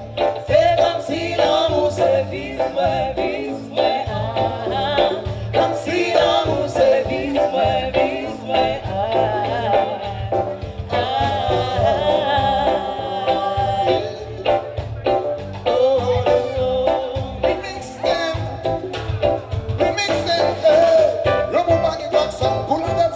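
Live band music with a singer's voice carried over a steady beat and bass line.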